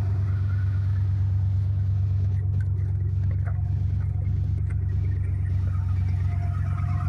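Ford 351 Windsor V8 running at a steady idle shortly after a cold start, a deep even rumble.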